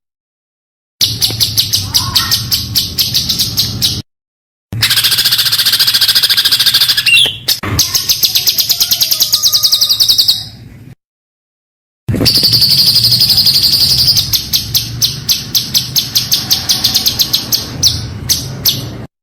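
Songbird singing rapid-fire runs of high repeated notes, the fast 'tembakan' song used as contest-bird training recordings, in three stretches that start and stop abruptly with about a second of silence between them.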